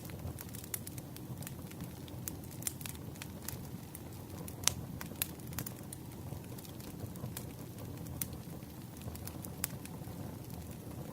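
Campfire burning with wood crackling: irregular sharp pops over a steady low rumble of flame, one pop louder than the rest about halfway through.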